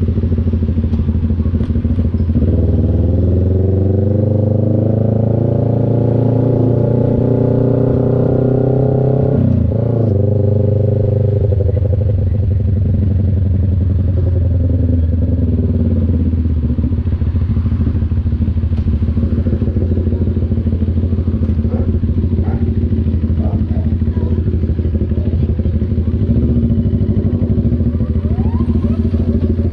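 CF Moto NK400's 400 cc parallel-twin engine running under load, its pitch climbing for about seven seconds as it accelerates. The pitch drops sharply about ten seconds in, then the engine runs at a fairly steady pitch.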